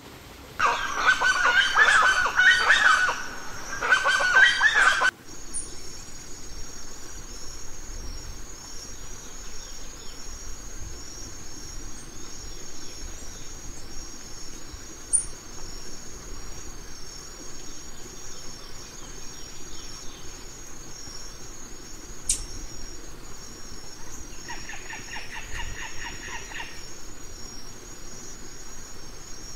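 A loud bird call, rooster-like, lasts for about the first four seconds and cuts off abruptly. After it comes a steady high-pitched insect trill over a low, even rush of running water, with a single sharp click and a short pulsed call near the end.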